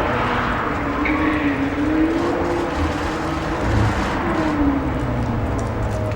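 A car engine running and revving, its pitch rising and falling twice over a steady low rumble.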